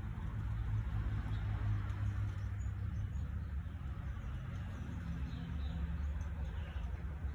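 A few faint, short, high chirps from a white-rumped shama over a steady low rumble.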